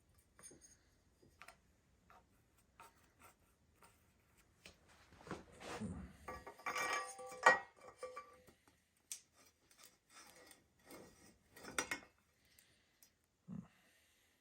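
Light clicks and small metallic clinks of tools and bike parts being handled, with a busier run of clattering, ringing metal about six to eight seconds in.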